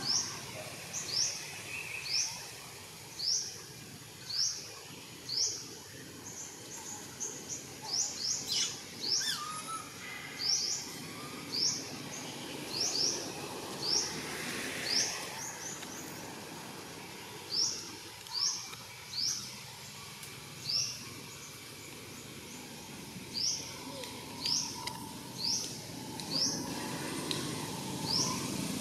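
A bird calling: short, high chirps that each rise in pitch, repeated about once a second with a couple of short pauses, over a steady outdoor background noise.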